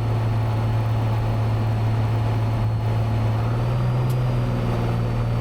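Steady drone of a Cessna 182's piston engine and propeller in flight, heard from inside the cabin.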